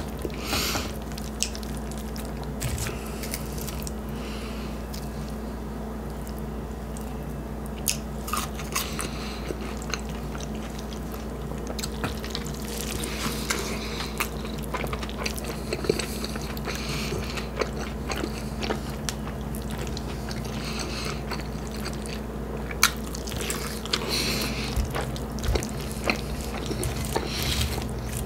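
A person eating close to the microphone: irregular bites and chewing, with crisp crunches and wet mouth clicks, over a steady low hum.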